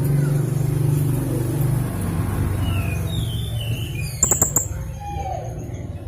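Young blue-crowned hanging parrot (serindit) giving a quick run of sharp, very high calls about four seconds in, after a few fainter whistled notes, over a steady low hum.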